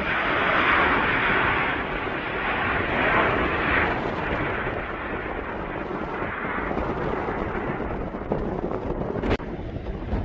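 Passing airplane's engine noise, loudest during the first few seconds and then slowly fading as it moves away, mixed with wind buffeting the microphone. A single sharp click near the end.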